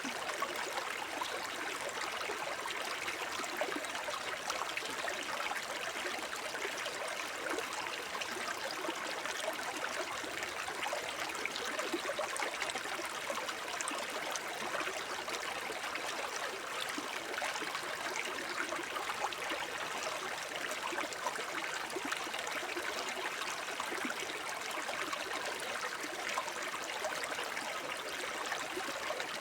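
Shallow forest brook babbling steadily: water splashing and gurgling over stones, an even bubbling with no breaks.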